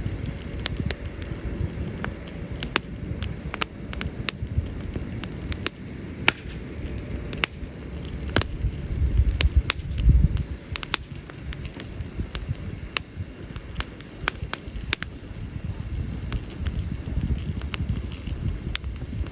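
Wood campfire burning: frequent sharp, irregular crackles and pops over a low rumble that swells about halfway through.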